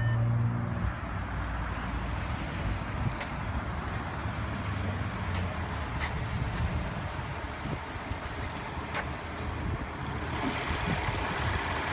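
Audi SQ5's supercharged 3.0-litre TFSI V6 idling steadily, a low even hum with a few faint ticks.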